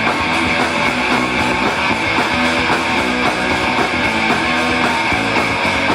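Live rock band playing the instrumental intro of a song: strummed electric guitars over bass and drums with a steady beat.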